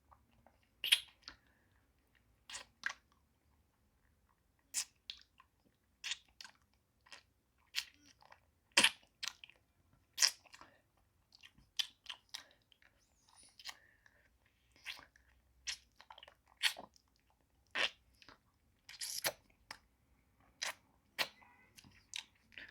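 Close-miked mouth sounds of eating a hard-candy pacifier lollipop: sharp, wet clicks and crunches of sucking and biting the candy, coming irregularly about once a second.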